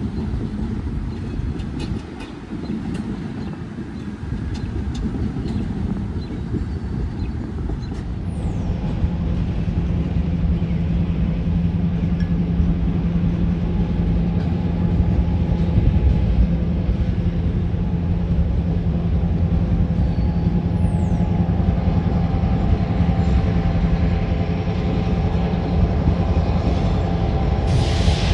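Train rolling past with a steady low rumble; about eight seconds in, a steady locomotive engine drone comes in and holds.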